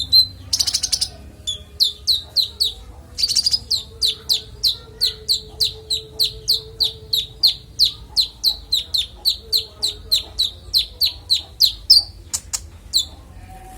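A konin songbird singing: a short harsh chattering burst near the start, then a long series of clear, quick down-slurred whistled notes, about three a second, ending shortly before the close.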